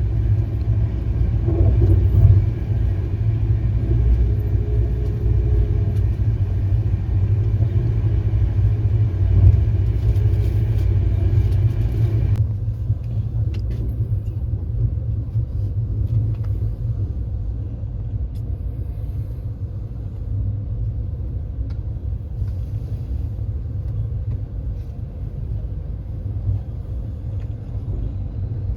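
Passenger express train running, a steady low rumble. About twelve seconds in, the higher hiss above the rumble drops away abruptly, leaving a quieter low rumble.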